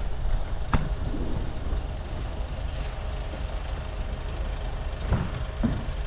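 A steady, low engine rumble with a sharp click about a second in and a couple of softer knocks near the end.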